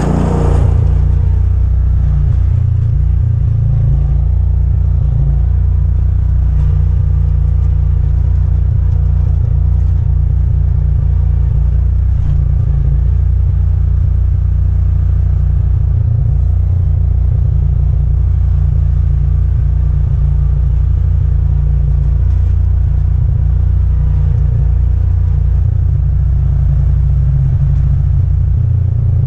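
20 HP Kohler Command engine on a Grasshopper mower running steadily at part throttle, a constant low hum. The owner judges this engine to need a rebuild because of heavy blow-by.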